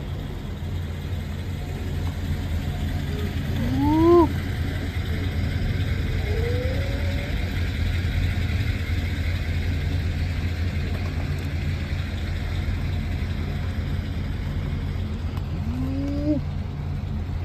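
Steady low drone of a car driving, heard from inside the cabin. A few short rising voice-like calls sound over it: one about 4 seconds in, another a couple of seconds later, and one near the end.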